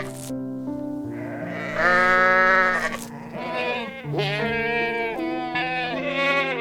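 Bleating animal calls, one long bleat followed by several shorter wavering ones, over background piano music.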